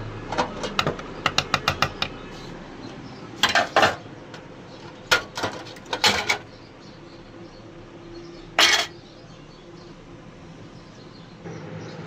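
Metal parts of a gas hob burner clinking and clattering as they are handled: a quick run of light taps, then several louder separate clanks.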